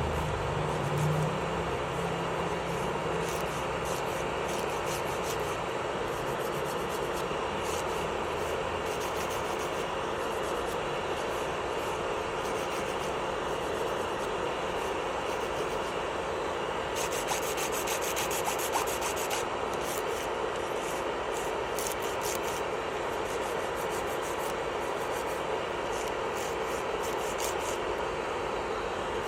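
Electric nail drill (e-file) running steadily with its bit rubbing against a fingernail: a faint motor hum under a rough filing sound, scratchier for a couple of seconds past the middle.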